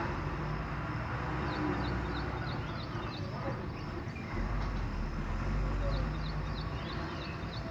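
A motor vehicle engine running with a low rumble that swells for a couple of seconds past the middle, over a background of workshop noise. Short high chirps come in quick runs several times.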